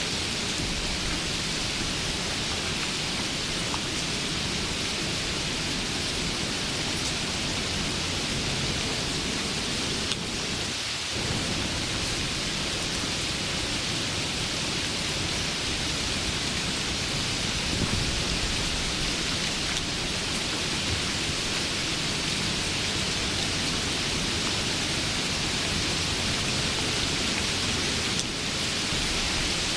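Steady, dense rain: an even hiss of falling rain with a low rumble underneath.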